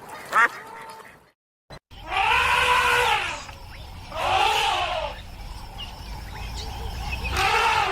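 A farm animal giving three long drawn-out calls, each rising and then falling in pitch, over a low rumble. Before them there is a short call and a brief gap of silence.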